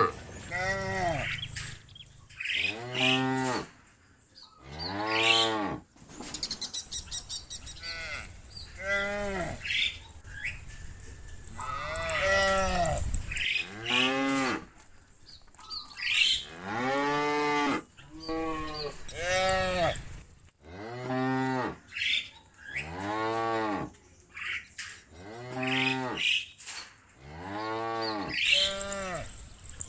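Cows mooing again and again, one long call after another, about every one and a half to two seconds; each call rises and then falls in pitch, and several overlap as more than one animal calls.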